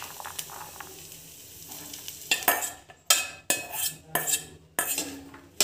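Boiled chana dal sizzling steadily in hot oil and spices in a kadhai, then a metal spoon scraping repeatedly against a steel bowl, about two strokes a second, as the last of the dal is scraped out into the pan.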